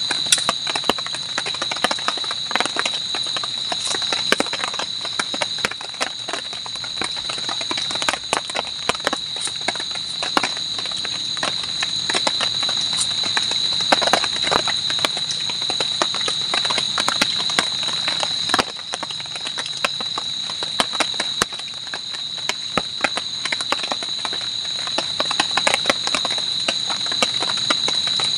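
Close eating sounds: chewing and smacking on fried fish, with many sharp irregular clicks, over a steady high-pitched drone of night insects. The level drops slightly about two thirds of the way through.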